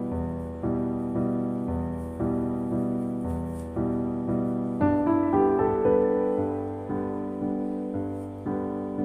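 Background music: slow, gentle piano playing sustained chords, a new chord struck about once a second.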